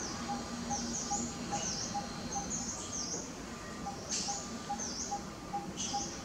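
Birds chirping in the background: short, high chirps repeating about twice a second, over a steady run of faint, evenly spaced low pips.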